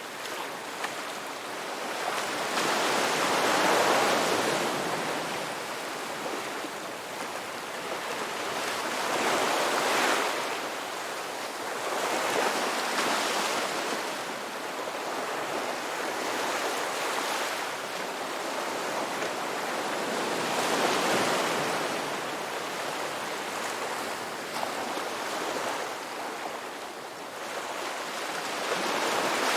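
Ocean waves breaking on a beach, a continuous wash of surf that swells with each breaker every few seconds and ebbs between them.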